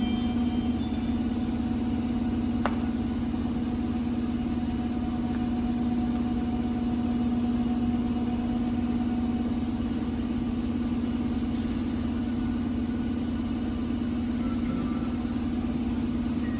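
An engine running steadily at constant speed, a low even drone that neither revs up nor slows.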